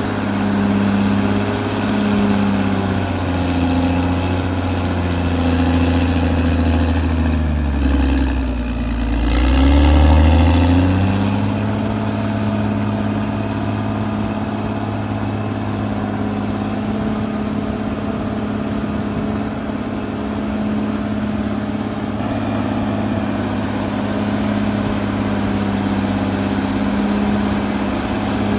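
Caterpillar D6R XL bulldozer's diesel engine running steadily; about eight seconds in its pitch sags and then climbs back, loudest around ten seconds in, before settling to a steady run again.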